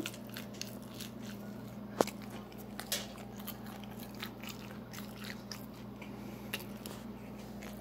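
A person chewing leftover pizza bits close to the microphone: irregular small crunching clicks, the sharpest about two seconds in. A steady low hum runs underneath.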